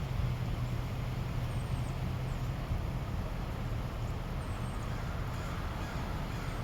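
Strong wind buffeting the microphone: a steady low rumble with an even rushing hiss above it.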